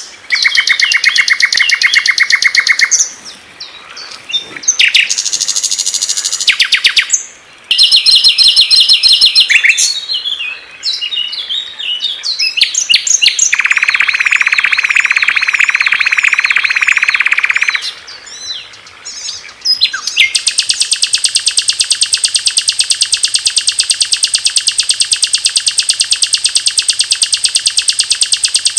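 Songs of several small songbirds edited one after another: rapid, high trills and chattering phrases that change abruptly, with short gaps between them. About two-thirds of the way through, a fast, even trill starts and runs on steadily.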